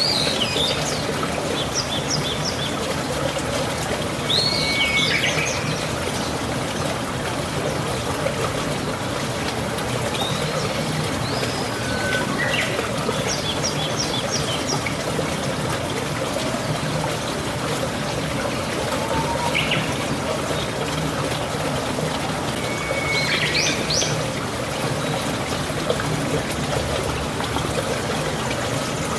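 Steady rain with water trickling and pouring, an even hiss throughout. Birds chirp over it now and then, in short high phrases every few seconds.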